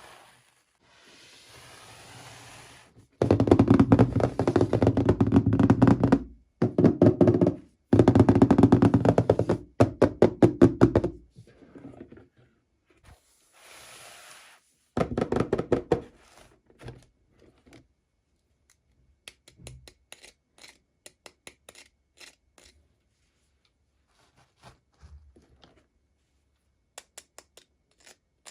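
Toy packaging handled during an unboxing: two loud runs of dense, rapid knocking and rattling, short rustles, then scattered light clicks and taps.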